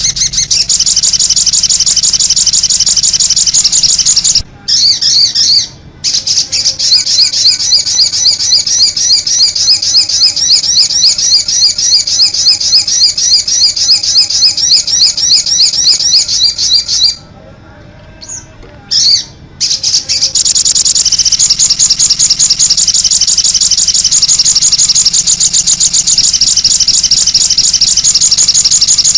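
Sogon songbird singing a long run of fast, high-pitched repeated chirps, many a second, broken by short pauses about four and a half seconds in and again around seventeen to twenty seconds in.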